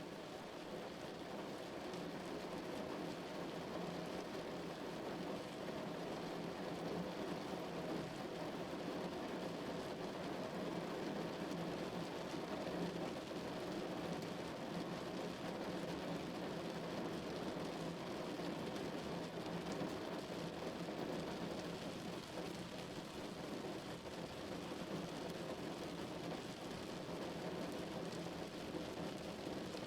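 Steady rain falling on a car's roof and windows, heard from inside the cabin as an even, muffled patter.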